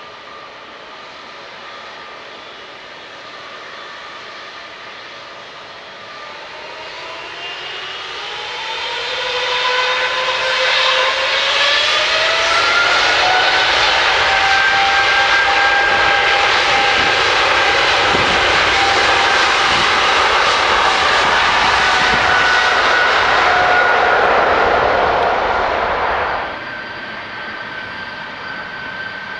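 GE90-115B turbofans of a Boeing 777-300ER spooling up for takeoff: the engine whine rises in pitch over several seconds, then holds loud and steady at takeoff thrust, and cuts off suddenly about three seconds before the end.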